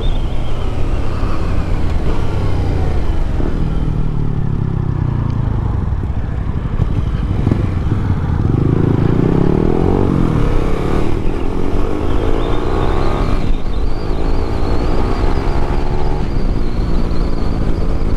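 Yamaha MT-07 parallel-twin motorcycle engine under way: its note falls as the bike slows over the first few seconds, then climbs in pitch in several steps as it accelerates up through the gears.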